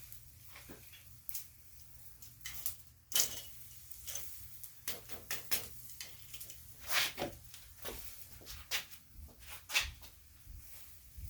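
Irregular clatter of knocks and clicks from things being handled at a charcoal grill, the sharpest about 3, 7 and 10 seconds in, over a faint steady low hum.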